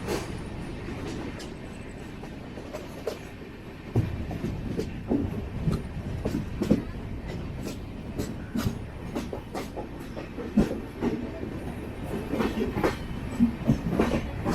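Passenger train coach of an LHB rake running along the track: a steady low rumble with irregular sharp clicks and knocks from the wheels over rail joints.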